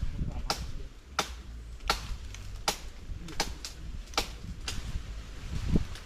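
A butcher knife chopping at a tree branch: a run of sharp, separate strikes, about one every 0.7 seconds, two in quick succession around three and a half seconds in.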